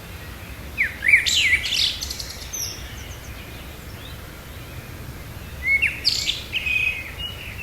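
Small songbirds chirping and trilling in two quick high bursts, one about a second in and another near the end.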